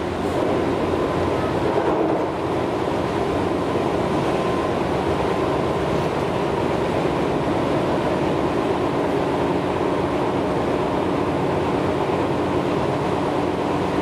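Tobu 6050 series electric train running at speed, heard from inside the passenger car: a steady rumble of wheels on rail with a faint steady hum.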